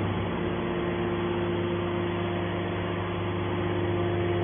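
Hydraulic metal baler running, a steady machine hum with constant low tones.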